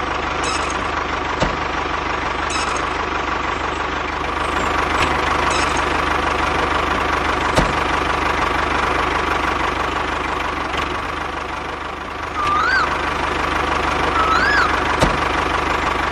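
A mini tractor's motor running steadily with an even hum, broken by a few sharp clicks. Near the end come three short whistle-like chirps, each rising and then falling in pitch.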